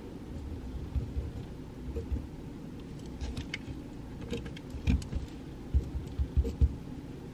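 Pencil writing on paper at a desk: soft, irregular knocks and small scratchy clicks over a steady low room hum.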